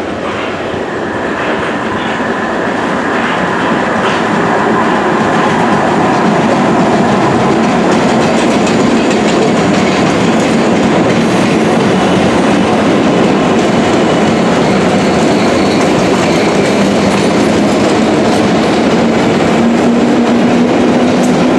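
London Underground 1962 Tube Stock Rail Adhesion Train approaching and running past, growing louder over the first few seconds and then a steady run of wheel and rail noise. A faint high whistle sounds during the approach, and a low hum rises slightly in pitch near the end.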